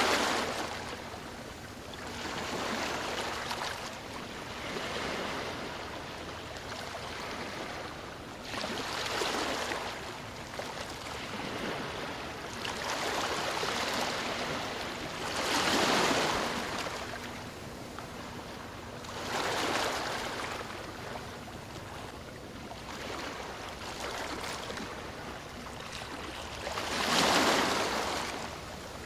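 Ocean waves breaking and washing on a shore, swelling and fading every few seconds, with several larger waves crashing louder.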